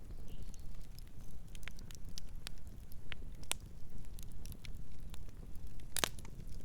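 Campfire crackling, with scattered sharp snaps and one louder pop about six seconds in, over a steady low rumble.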